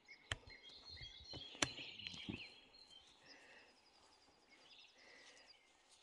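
Faint songbirds chirping, with a rapid trill of repeated high notes in the second half. Two sharp clicks in the first two seconds and a few soft thumps stand out above the birds.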